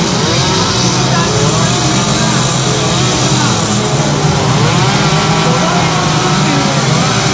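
Chainsaw running continuously during carving, its engine pitch rising and falling again and again as it is revved into the wood and eased off.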